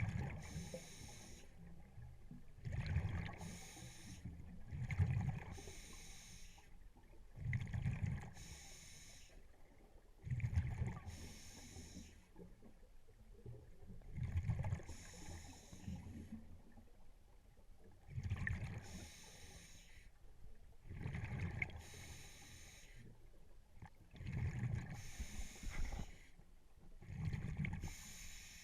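Scuba diver breathing through a regulator underwater: a hissing inhale and a bubbling exhale that come round in a slow, even rhythm, a burst every two to three seconds.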